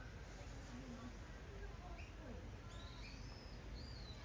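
Scattered short bird chirps over a steady background hiss, with faint distant voices.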